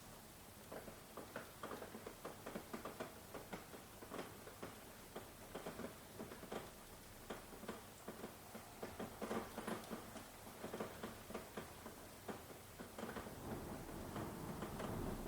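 Rain falling in close, irregular drops that patter and tick on a surface. A low rumble of thunder builds near the end.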